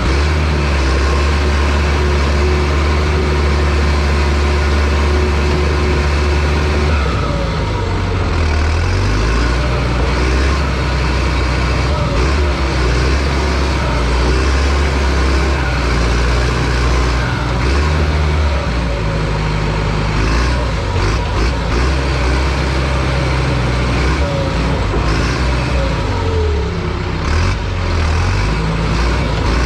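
Bulldozer's diesel engine running loud and steady. Its pitch changes about a quarter of the way in, again near the middle, and several times near the end, with a few knocks in the later part.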